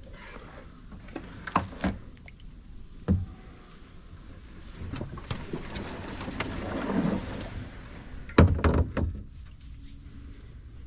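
Kayak being paddled: a paddle swishes through the water, with several sharp knocks of the paddle against the kayak, the loudest cluster near the end.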